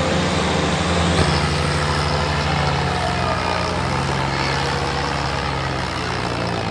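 Tractor diesel engines running loud and steady, with a deep, even engine note, working under load as two tractors pull against each other.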